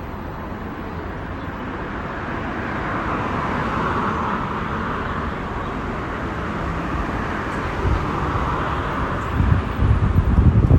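Outdoor road noise that swells and fades twice, like vehicles passing, with gusts of wind buffeting the microphone from about nine seconds in.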